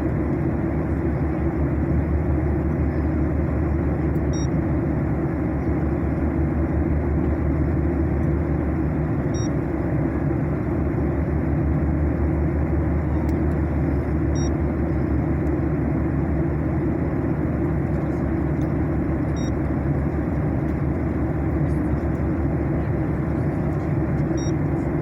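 Steady cabin noise of a jet airliner in flight: an even, unbroken roar of engines and airflow, weighted toward the low end. A faint short tone repeats about every five seconds.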